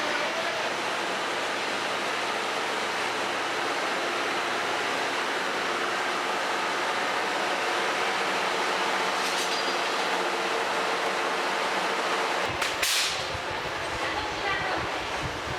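Train running steadily, with an even rail noise. Near the end a brief sharp whoosh is followed by a fluttering low rumble.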